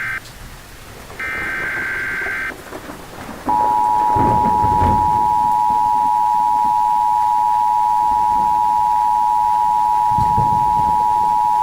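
Emergency Alert System signal. A buzzy data burst of the SAME header ends right at the start, and a second one lasts about a second and a half. About three and a half seconds in, the steady two-tone EAS attention signal comes on, two pure tones sounding together and held loud to the end. It heralds an emergency alert, here a tornado emergency.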